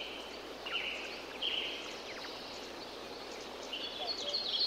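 Jungle ambience: birds calling over a steady background hiss. There are short buzzy trills in the first two seconds, then a busy run of quick high chirps near the end.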